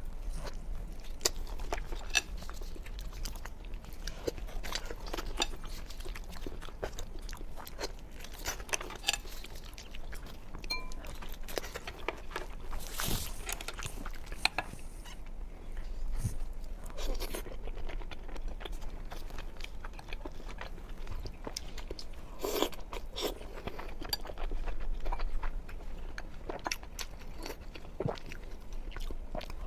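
A person chewing and biting food close to the microphone, with irregular sharp clicks and crunches.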